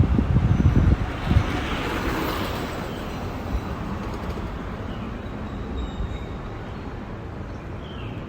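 Wind buffeting the microphone during a bicycle ride for the first second or so, then steady outdoor hiss with a few faint bird chirps.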